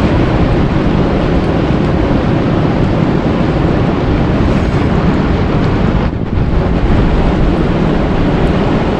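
Loud, steady rushing noise without any pitch, heaviest in the low end, dipping briefly about six seconds in.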